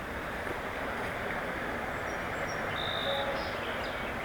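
Steady rushing of flowing river water, with a brief high tone about three seconds in.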